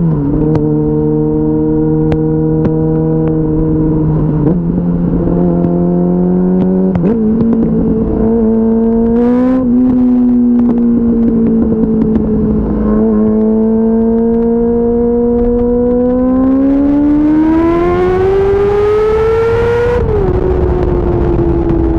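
2004 Yamaha R6's 600 cc inline-four engine running at highway speed. Its pitch drops right at the start and steps up a couple of times, then holds steady. Near the end it climbs for about four seconds under acceleration and falls sharply at a gear change.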